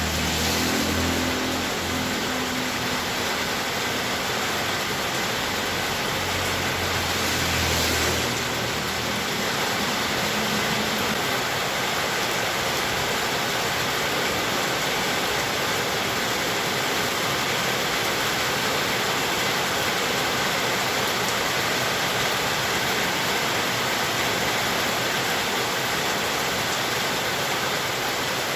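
Heavy rain falling in a steady, dense hiss. A low rumble sits under it in the first few seconds and again from about six to ten seconds in.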